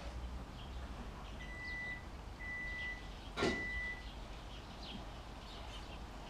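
Three steady, high electronic beeps, each about half a second long and about a second apart, with a sharp knock during the third beep. Faint short bird chirps run underneath.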